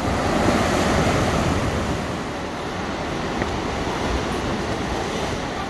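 Heavy ocean swell surging and breaking, a loud rushing wash that builds about a second in and then slowly subsides.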